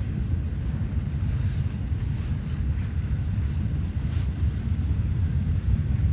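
Intermodal freight train rolling past: a steady low rumble of wheels and cars.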